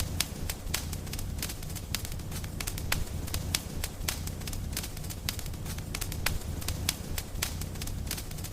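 Wood fire crackling, with many sharp, irregular pops and snaps over a steady low rumble of burning.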